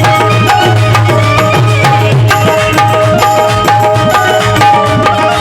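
Instrumental music interlude from a live Bhimgeet band: a quick, even hand-drum beat under a held melody line with a steady low bass note.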